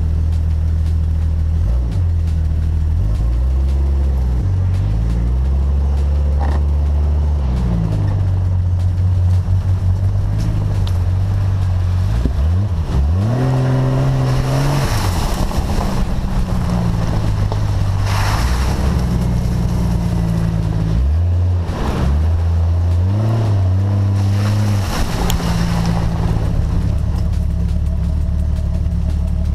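Jeep engine heard close up, driving along a dirt trail, its revs rising and falling again and again with the throttle. There are a few louder bursts of rushing noise around the middle.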